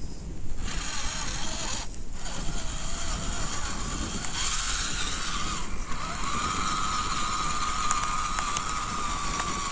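Small RC crawler's electric motor and drivetrain whining as it drives, the pitch wavering with the throttle and settling into a steady whine about two thirds of the way through, over a steady low rumble.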